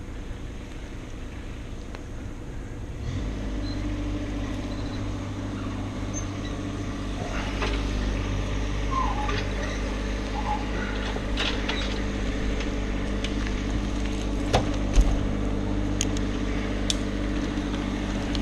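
An engine comes in about three seconds in and then runs steadily, with a few short knocks near the end.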